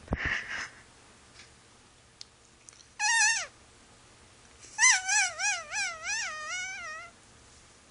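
A wet dog whining: a short falling whine about three seconds in, then a longer whine of about two seconds whose pitch wavers up and down several times.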